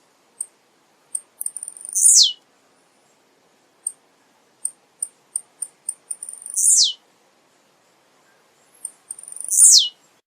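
Male blue-black grassquit (tiziu) singing. Runs of short, high ticks lead each time into its buzzy 'ti-ziu' note, which falls steeply in pitch. The phrase comes three times.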